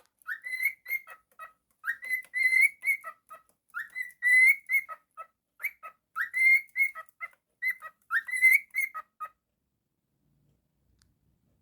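Pet cockatiel whistling the same short tune five times over: each phrase is a note sliding up and held high, then a few short chirps. The whistling stops about two seconds before the end.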